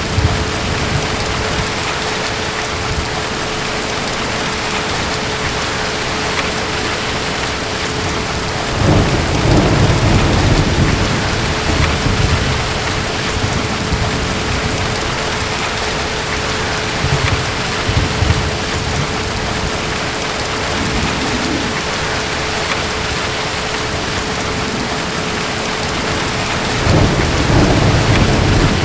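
Steady heavy rain falling, with deep rolls of distant thunder rumbling in twice: a long roll about nine seconds in and another near the end, with fainter rumbles between.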